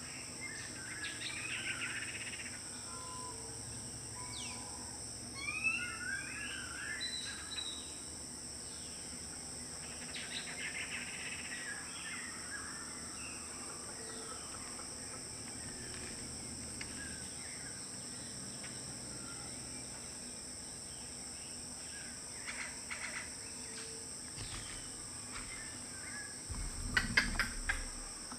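Insects keep up a steady, high-pitched two-tone drone while birds call on and off with short rising notes, mostly in the first half. Near the end a few knocks with a low rumble stand out as the loudest sound.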